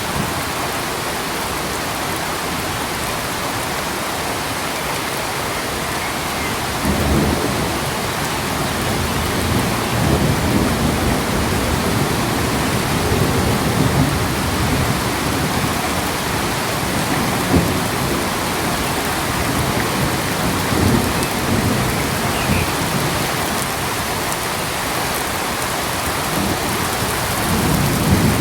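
Steady rain hissing, with low rumbles swelling and fading repeatedly from about a quarter of the way in.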